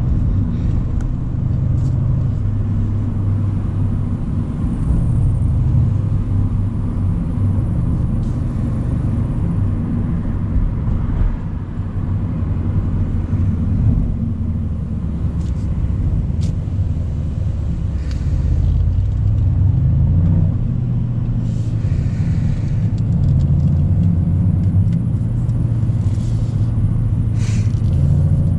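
Mercedes-AMG C63's 4.0-litre twin-turbo V8 running steadily while the car cruises, heard from the open-top cabriolet, with a deep rumble whose note shifts a little now and then.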